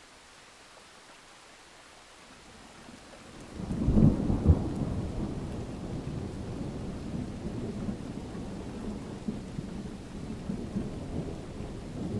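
Rain falling as a faint steady hiss, then thunder rolls in about three and a half seconds in. It is loudest just after four seconds and keeps rumbling and crackling under the rain.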